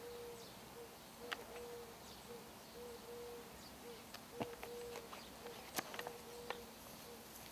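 Quiet garden ambience with a bird repeating a low note over and over and faint high chirps. A few sharp clicks and creaks, the loudest near the middle and end, come from the plastic sun lounger as someone shifts and climbs off it.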